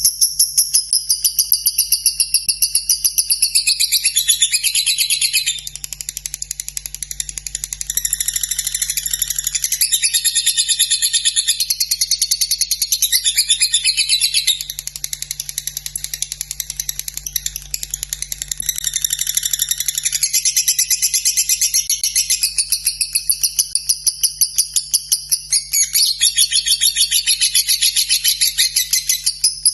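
Lovebird singing its long, unbroken ngekek: a very fast, high-pitched chattering trill that runs without a break and shifts in pitch and texture every several seconds.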